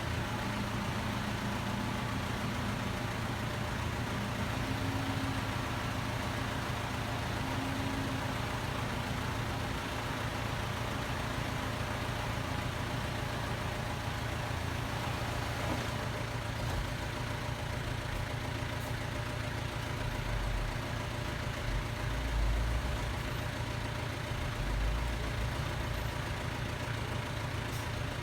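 Heavy diesel engine of earthmoving equipment running steadily. A few deeper low rumbles swell up in the last third.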